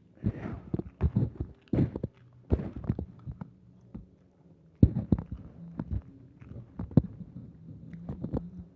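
Close-up eating of roast chicken: irregular wet chewing and mouth smacks, with two sharp clicks a little after halfway and near the end.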